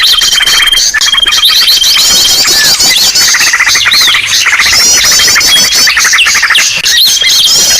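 Bird-lure recording of many small birds chirping and calling over one another: rapid trills, repeated chirps and quick rising and falling whistles, with a long held whistle about a second in and again near the end.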